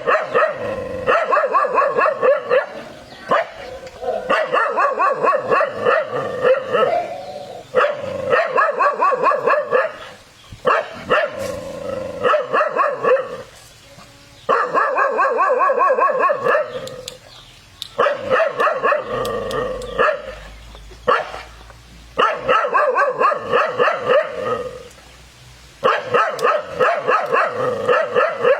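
Dog barking in rapid, repeated volleys: runs of quick barks lasting two to three seconds each, broken by short pauses, about eight times over.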